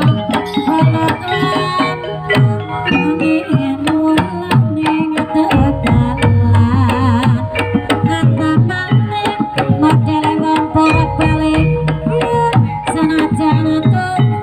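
Live Javanese gamelan music for a barongan dance: kendang hand drums play a busy rhythm under a melody of struck bronze metallophones. A deep sustained tone comes in about five seconds in and fades near eleven seconds.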